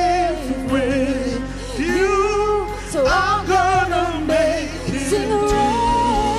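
Worship team singing a praise song with band accompaniment: long sung notes with vibrato over steady backing.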